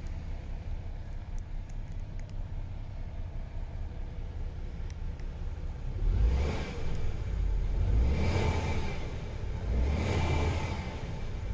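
MAN TGX 26.460 truck's straight-six diesel idling with a steady low rumble, then revved three times about two seconds apart in the second half, each rev swelling up and dropping back to idle.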